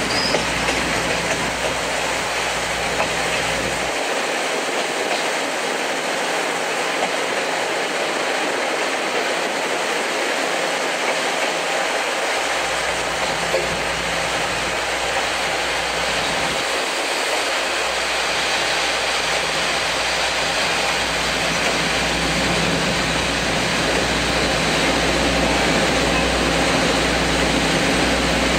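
Coaches of a steam-hauled passenger train rolling along the track, heard from inside the carriage: a steady noise of wheels on rails, growing a little louder near the end.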